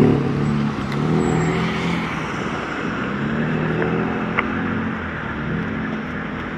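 A car engine accelerating, its pitch rising and levelling off a few times, with a sharp click about four seconds in.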